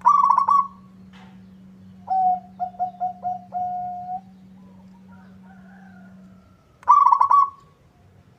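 Zebra doves (perkutut) calling: a short, fast rattling call right at the start and again about seven seconds in, and between them a series of short coos ending in one longer held coo. A faint steady hum stops about six and a half seconds in.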